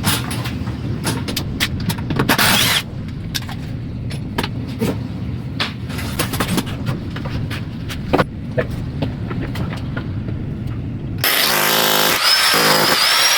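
Scattered knocks and clicks of lumber and hand tools being handled over a steady low rumble. About eleven seconds in, a power tool starts and runs loudly with a whine to the end.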